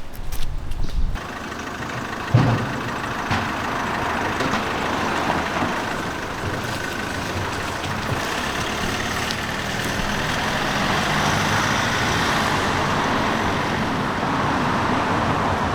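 A motor vehicle running, a steady rushing noise that sets in about a second in, with a single thump a second or so later.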